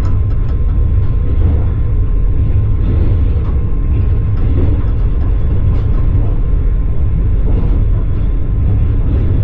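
Steady low rumble of a passenger train carriage running along the rails, heard from inside the carriage, with a few faint scattered clicks from the wheels.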